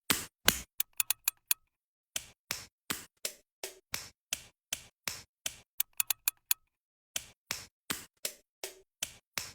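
A steady beat of short, sharp clicks, about three a second, broken by two quick flurries of clicks about a second in and about six seconds in.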